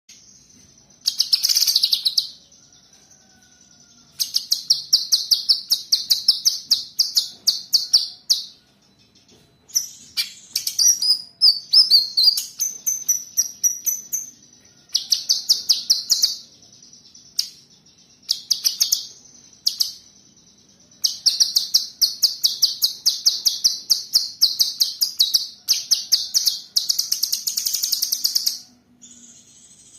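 A cucak kinoi songbird singing loudly: runs of rapid, evenly repeated high notes lasting a few seconds each, broken by short pauses, with a more varied warbled phrase about ten to thirteen seconds in.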